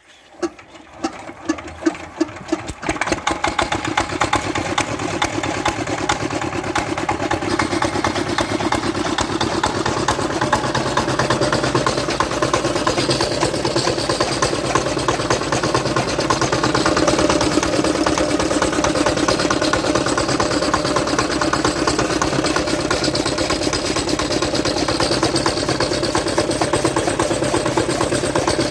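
Petter-type single-cylinder diesel engine starting: a few separate firing knocks in the first couple of seconds as it catches, then it picks up speed within about three seconds and settles into a steady, rapid knocking run.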